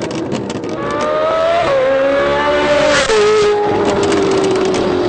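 Ferrari 458 Italia's V8 through a PP Performance aftermarket exhaust, accelerating hard. The pitch climbs and drops at an upshift about one and a half seconds in, climbs again and drops at a second upshift about three seconds in, then falls slowly.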